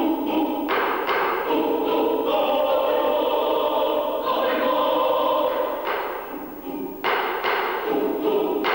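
Mixed choir singing held chords, with sudden full entries about a second in and again near the end.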